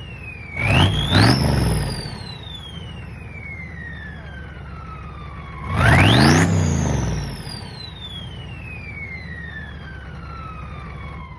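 6.5-litre V8 turbo diesel idling and revved twice, a quick double blip about half a second in and a longer one near six seconds. With each rev the Super60 turbo's whistle rises sharply, then winds down in a long falling whine as the engine drops back to idle.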